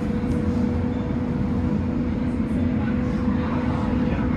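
Tram running on its rails, heard from inside the car: a steady low rumble with a constant hum.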